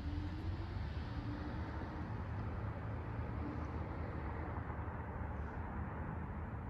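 Wheeling and Lake Erie freight train rolling by with a steady, unbroken low rumble.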